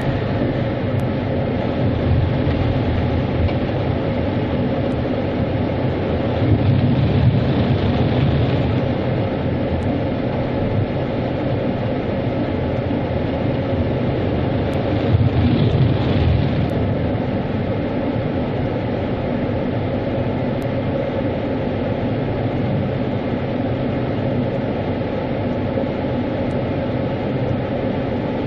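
Automatic car wash machinery running with a steady rumble and a faint hum, swelling louder twice, at about seven seconds and again at about fifteen seconds.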